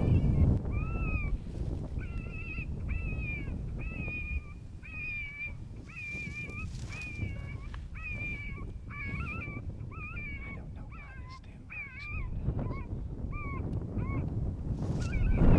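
FoxPro Shockwave electronic predator caller playing a rabbit distress call: a long string of short, wavering high squeals, one after another, that stops about three-quarters of the way through. Wind rumbles on the microphone underneath.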